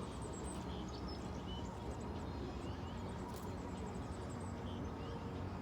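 Many birds calling, with short high chirps scattered throughout over a steady dense background din.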